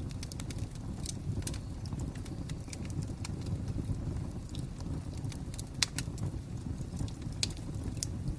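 Wood fire crackling: a steady low rumble of burning with scattered sharp pops and snaps, the loudest a little before six seconds in.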